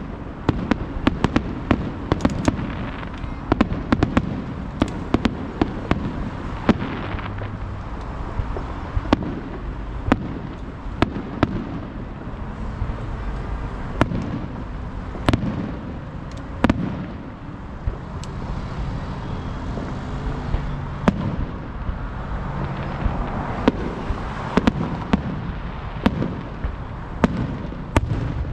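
Aerial fireworks display: a dense barrage of sharp cracks and bangs, several a second, over continuous low booming rumble, easing briefly about two-thirds of the way through.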